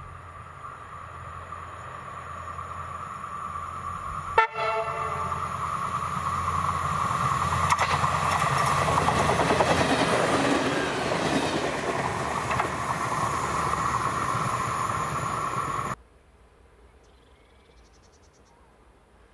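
Two-car passenger train approaching and passing close by, its running noise and wheels on the rails growing steadily louder, with one short horn blast about four seconds in. The sound cuts off abruptly about three-quarters of the way through, leaving only faint background.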